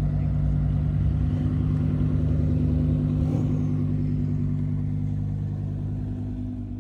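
A car engine running steadily with a deep, even note, growing gradually quieter over the last few seconds.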